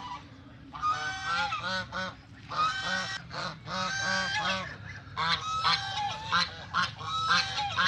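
Swans honking: a run of short, nasal calls, several overlapping, repeating over and over.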